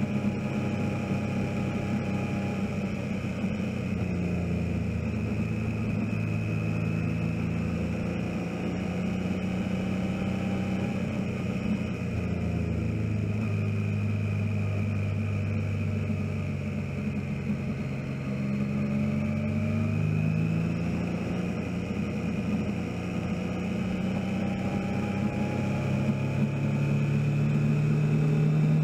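Motorcycle engine running on the move, heard from a camera mounted on the bike. The engine note drops as the bike slows for a tight bend around the middle, then climbs and gets louder as it picks up speed again toward the end.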